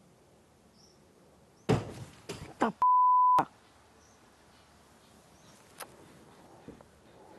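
A sudden burst of loud sound about two seconds in, then a half-second steady 1 kHz censor bleep that blanks out everything else, covering a word.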